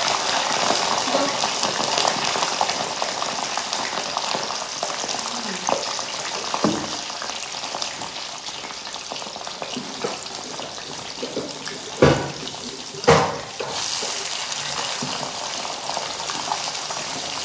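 Potato sticks deep-frying in hot oil in a deep pan, a steady sizzle that thins out midway and strengthens again. Two sharp knocks come about two-thirds of the way through.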